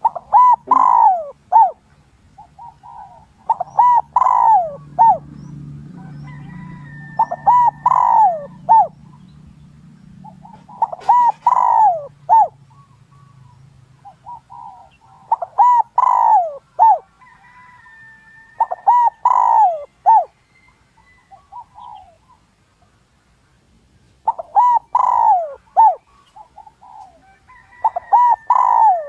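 Spotted dove cooing: a decoy bird's territorial call used to lure wild males, repeated as loud multi-note coo phrases about every three to four seconds, about eight phrases in all.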